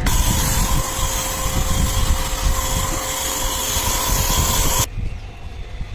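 Pressure-washer jet pump running with a steady hum under a loud hiss of water spray, washing an air conditioner unit; it stops abruptly near the end.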